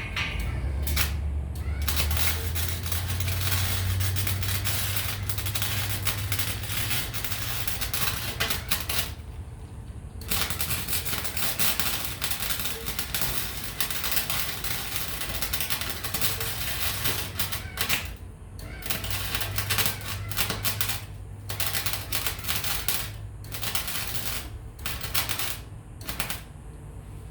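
Electric welding arc crackling on steel. One long run of about nine seconds, then a series of shorter runs broken by brief pauses, as the welds are laid in bursts. A low hum sits under the first few seconds.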